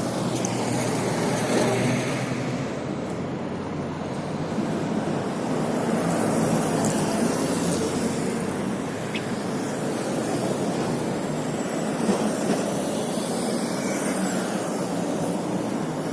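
Steady riding noise from a bike moving through city traffic: wind rush and vehicle noise with no breaks.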